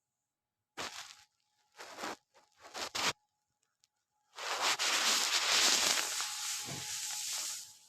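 Electric coffee grinder pulsed in three short bursts, then run for about three seconds before it stops near the end.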